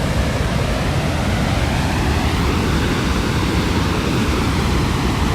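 Loud, steady rush of Dettifoss, a very powerful glacial-river waterfall, heard close up, a deep continuous roar of falling water.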